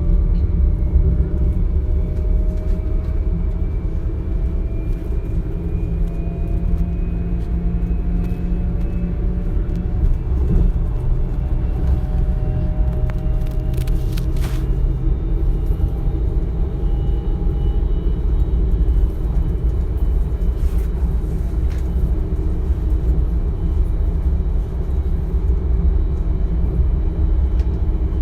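Class 425 electric multiple unit heard from inside the carriage: a steady low rolling rumble with the whine of its traction motors and inverters, several thin tones slowly rising in pitch for most of the first two-thirds as the train gathers speed, with a few brief clicks.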